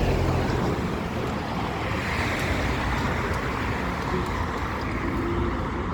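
Road traffic on a busy city street: a steady wash of passing cars, swelling slightly about two seconds in.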